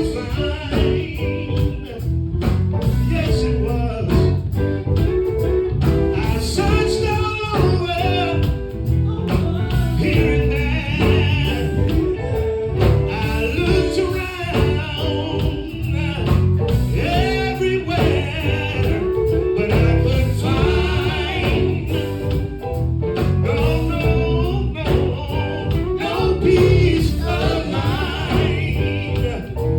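Gospel group performing: singing with guitar and bass accompaniment, a steady beat.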